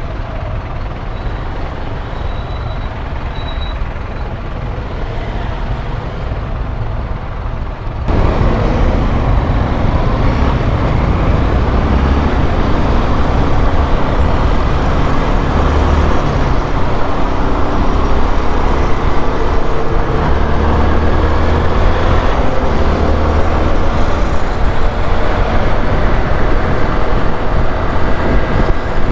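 Honda XRE 190 motorcycle on the move in city traffic: its single-cylinder engine running under road and traffic noise, which turns suddenly louder about eight seconds in.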